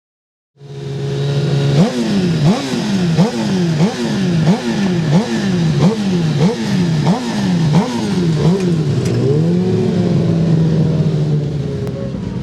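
Superbike engine held at a steady note, then revved in quick, regular throttle blips, about three every two seconds, each rising sharply and falling away. It settles back to a steady note near the end.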